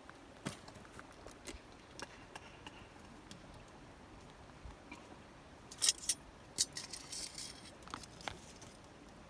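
Small objects being handled: scattered light clicks, taps and clinks with a little rustling. The loudest is a quick pair of clinks about six seconds in.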